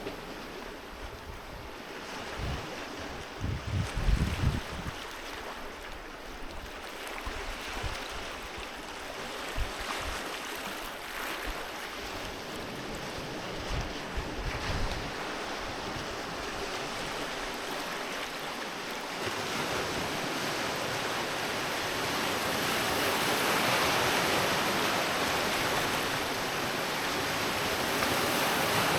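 Sea surf washing on a beach as a continuous hiss. It swells louder in the second half, with a few low thumps of wind on the microphone in the first few seconds.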